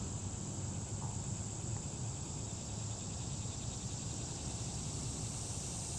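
Steady high-pitched chorus of insects such as crickets, over a low, constant rumble.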